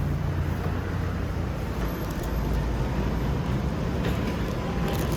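Steady low rumble and noise of a running vehicle.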